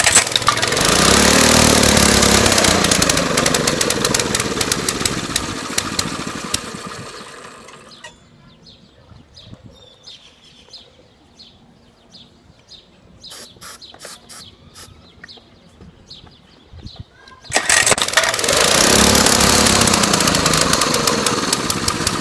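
A small mini-bike engine catching on starting fluid and running a few seconds, its revs rising and falling, before fading out and dying; it then catches again with a sudden start near the end and runs briefly. It is an engine that has sat unused for years and won't keep running on its own.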